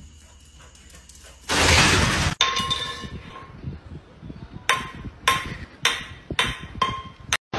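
A metal can stuck over a small animal's head knocking against a concrete floor: a loud burst of noise about a second and a half in, then about seven ringing metallic clanks at uneven intervals.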